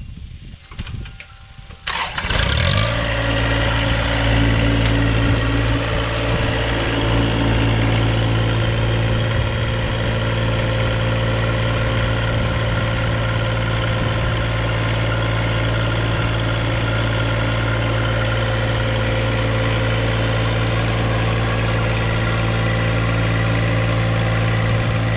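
An engine starts about two seconds in and then idles steadily.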